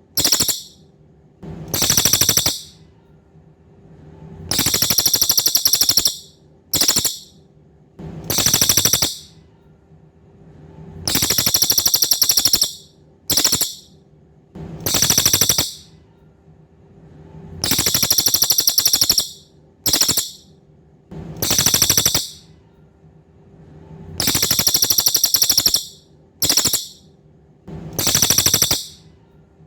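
Cililin, a cicada-like insect used as a training song for songbirds, calling in loud high-pitched buzzing trills made of very fast pulses. The trills come in a phrase that repeats about every six and a half seconds: a long trill of about a second and a half, a brief one, then one of about a second.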